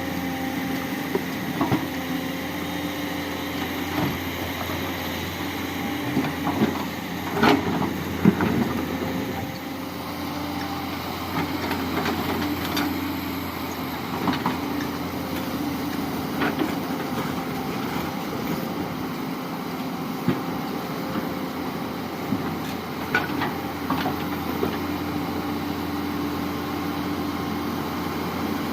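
Tata Hitachi 200 excavator's diesel engine running steadily, with scattered knocks and clanks, loudest about eight seconds in.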